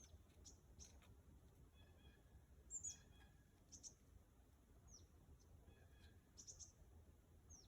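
Nuthatches and other small songbirds calling faintly: scattered high, thin chips throughout, and twice a short run of nasal notes.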